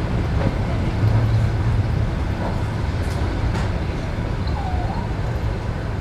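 ED9M electric multiple unit running along the line, heard from inside a carriage: a steady low rumble of wheels on rails with a few faint clicks.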